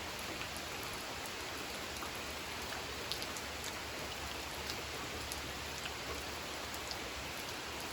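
Steady gentle rain falling on a pond, an even hiss with scattered individual drops ticking.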